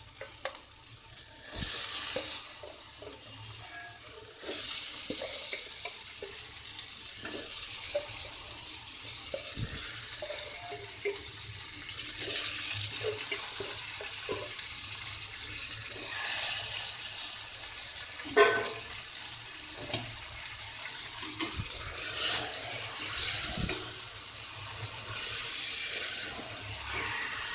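Raw chicken pieces sizzling in hot spiced oil in a steel kadai, the masala already fried until the oil separates. The hiss swells several times, and a metal spatula scrapes and knocks against the pan.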